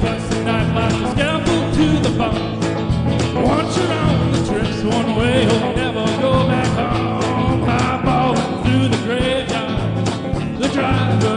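A rock band playing with a steady beat, mixing rock-and-roll and country, with a melody line wavering over the top.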